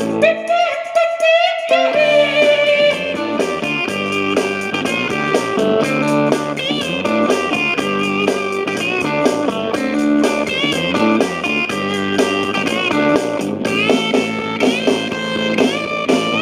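Rock band playing an electric guitar solo over bass and drums, opening with a long bent note.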